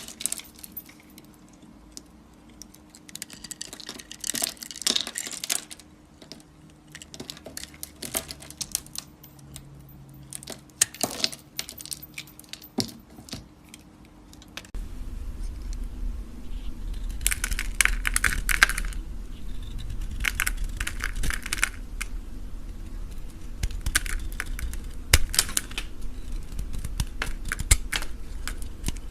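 A knife cutting and scraping through bars of soap, a string of crisp crackling scrapes and sharp clicks. About halfway through, a steady low hum comes in under the cutting.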